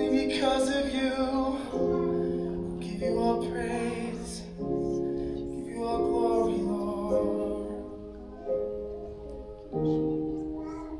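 Worship music: a slow song with piano or keyboard chords and singing, the notes held and changing about every second.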